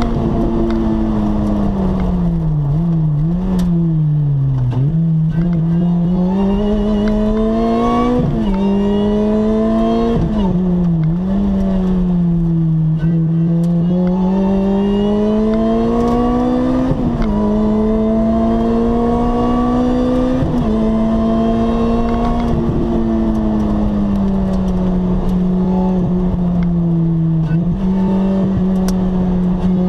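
Lotus Exige S engine heard from inside the cabin under hard driving: the note climbs as it pulls through the gears, drops sharply at each of several gear changes, and falls with a few wobbles as it slows for a bend.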